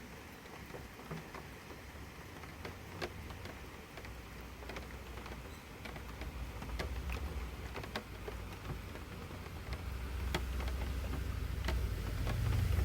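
A vehicle's low engine rumble swelling louder through the second half, as if a car is approaching, over scattered light ticks and pattering clicks.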